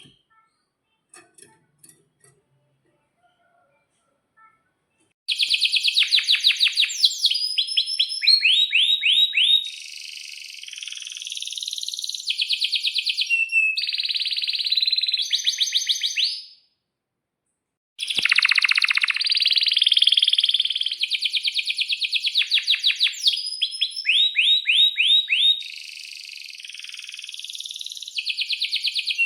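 Domestic canary singing loud, high-pitched song made of rapid trills and fast chirp series, in two long bouts split by a short pause. The first few seconds hold only faint scattered ticks.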